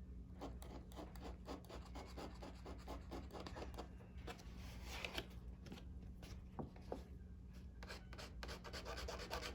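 Faint, quick, repeated scraping strokes of a small hand tool on parchment, lifting off old glue that has been softened with alcohol.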